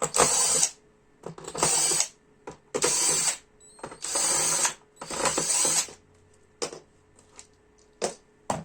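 Ratcheting screwdriver backing out screws: five rasping ratchet strokes, one about every second. After that, several scattered light clicks as parts are handled.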